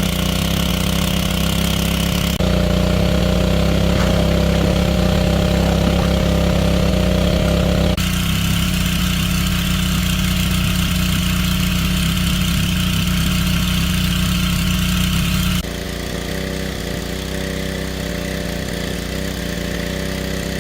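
A small engine running steadily at a constant speed. Its tone and loudness change abruptly about two and a half, eight and fifteen and a half seconds in.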